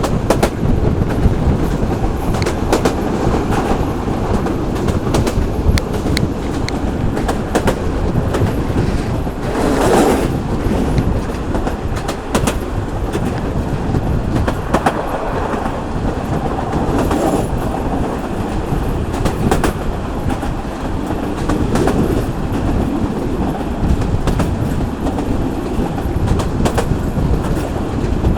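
Local passenger train running along the line: a steady rumble with wheels clicking over rail joints, and a brief louder clatter about ten seconds in.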